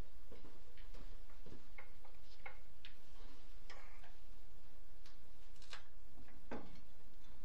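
Irregular light clicks and clinks of metal transmission parts being handled as the two case halves of a manual transmission are fitted together, over a steady low hum.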